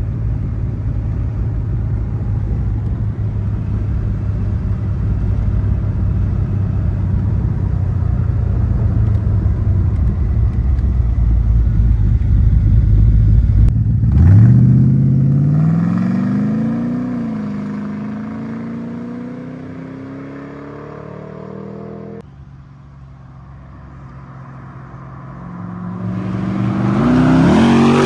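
LS3 V8 of a 1969 Corvette. It gives a deep, steady rumble for about the first half. Then it accelerates hard with the engine pitch climbing, shifts gear once and fades away, and near the end it swells up loud as the car drives close past.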